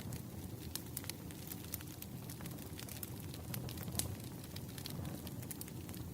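Wood fire crackling: a steady low rumble of burning logs with irregular sharp pops and snaps, the sharpest about four seconds in.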